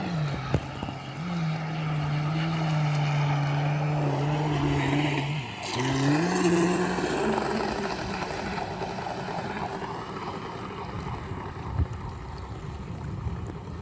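Motor of a homemade RC boat running with a steady low hum. It dips in pitch about five seconds in, picks up briefly, then fades out and leaves only wind and water noise. The boat is running with a broken propeller-shaft cross joint, which gives it an abnormal sound.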